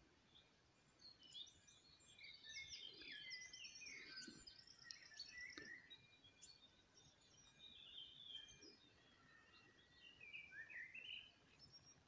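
Faint songbird song: rapid chirps and trilled phrases, busiest in the first half, with another short burst near the end.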